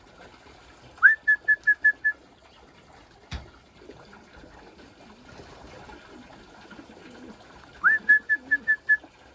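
A person whistling twice to call racing pigeons in to the loft. Each call is a rising note followed by five quick short notes on the same pitch. A single sharp knock falls between the two calls.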